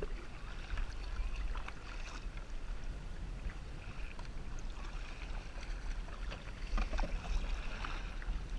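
Water splashing and dripping around a kayak on the ocean, many small irregular splashes over a steady low rumble of wind on the microphone.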